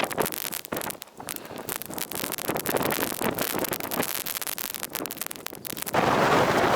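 Blizzard wind gusting against the microphone, a rough, crackling rush that rises and falls. About six seconds in it jumps to a steadier, louder rush of wind.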